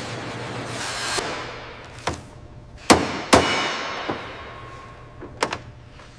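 Hand tools clicking and knocking during harness fastening work: a scattered series of sharp knocks, the two loudest close together about three seconds in, over a fading hiss.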